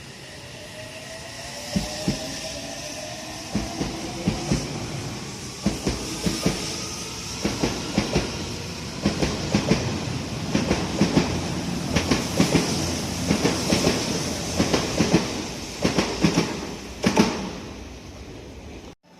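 Odakyu electric commuter train moving through the platform, its wheels clacking in pairs over the rail joints, the clacks coming closer together as it gathers speed. A rising electric motor whine is heard over the first few seconds.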